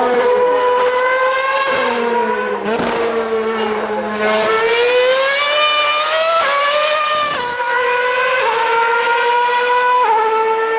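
Formula One car's 2.4-litre V8 engine at high revs. Its pitch sags and then climbs under acceleration, then drops in sudden steps as it changes up through the gears. A second, lower engine note is heard for a couple of seconds near the start.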